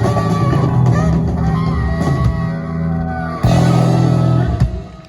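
Live rock band with electric guitars, bass, drums and saxophone playing the closing bars of a song, ending on a loud final chord struck about three and a half seconds in and cut off about a second later.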